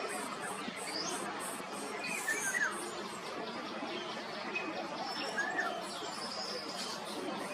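Birds chirping outdoors: about half a dozen short, separate chirps, some high and some lower, spread over a few seconds above steady background noise.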